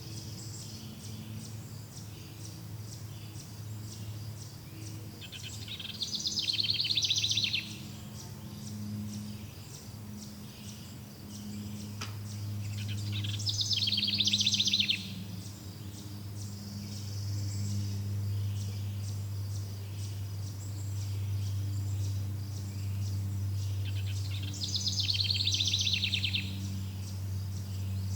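Outdoor nature ambience: insects chirping steadily in fast pulses over a low steady drone, while a rapidly trilled animal call rings out three times, about seven to ten seconds apart, each about a second and a half long and the loudest sound present.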